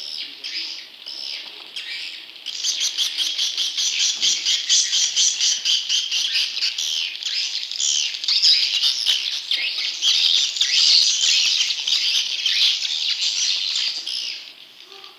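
Swiftlet lure recording of juvenile swiftlets calling: dense, rapid twittering chirps, much louder from about two and a half seconds in and falling away near the end.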